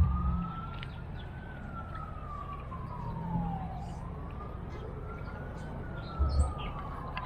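A distant emergency-vehicle siren wailing, its single tone slowly rising and falling twice, with small birds chirping. Brief low thumps at the start and about six seconds in.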